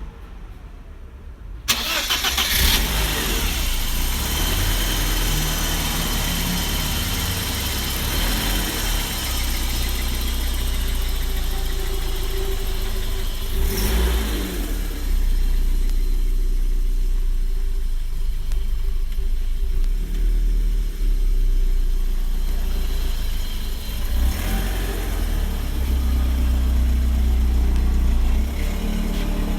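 BMW E30 318i's four-cylinder petrol engine cold-starting: it cranks briefly and catches about two seconds in, then keeps running at idle, the level rising and falling a little.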